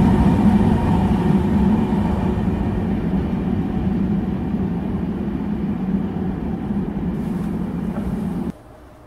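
A train that has just passed receding, its running noise and low hum fading gradually, then cut off abruptly about eight and a half seconds in.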